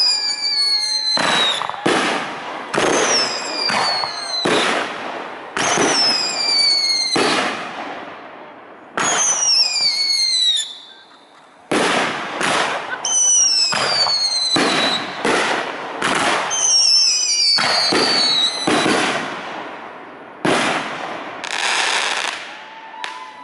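Fireworks display: aerial shells bursting one after another, about twenty booms with lingering tails, several joined by high whistles sliding down in pitch. There is a short lull about two-thirds of the way through.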